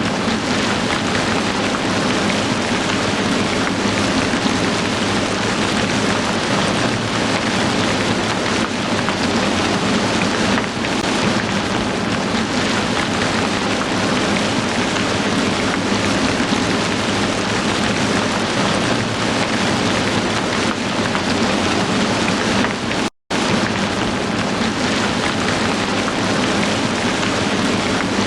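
Heavy rain falling steadily, a dense even hiss. It cuts out for a split second about three-quarters of the way through.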